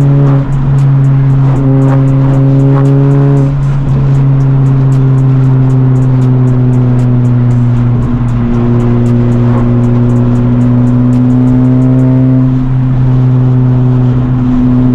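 Honda Civic Type R's turbocharged four-cylinder engine holding a steady drone while cruising, heard from inside the car, under background music with a steady beat.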